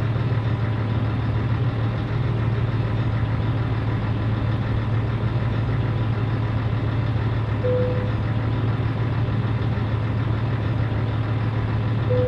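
Scania 113 truck's 11-litre six-cylinder diesel running steadily at an even speed. Two short beeps sound, one past the middle and one near the end, before the sound cuts off suddenly.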